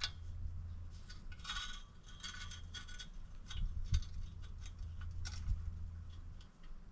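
Light metallic clinking and jingling, loudest in a cluster about a second and a half in, with a few sharper knocks later, over a steady low hum.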